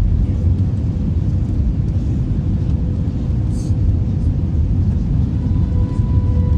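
Airbus A321 jet airliner noise: a steady low rumble with a thin steady tone over it, and a second, higher tone joining near the end.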